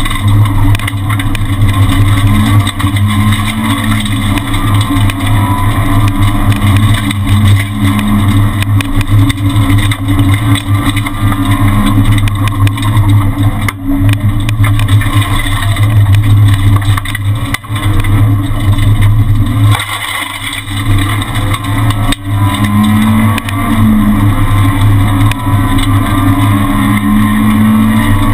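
Renault Twingo R1 rally car's four-cylinder engine heard from inside the cabin, driven hard at speed. It eases off briefly about twenty seconds in, then pulls again.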